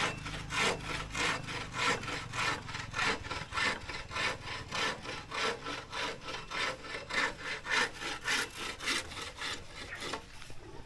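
Hand saw cutting through wood in steady back-and-forth strokes, about three a second, stopping near the end.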